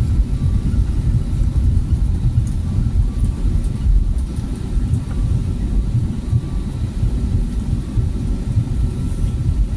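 Steady low rumble of an Airbus A320neo heard from inside the passenger cabin, with faint steady tones above it.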